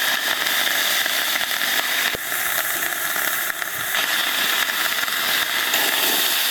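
Water hissing as it flashes to steam in the steam generator of a very hot Koster wood-fired sauna stove: a steady, loud hiss, with one short click about two seconds in.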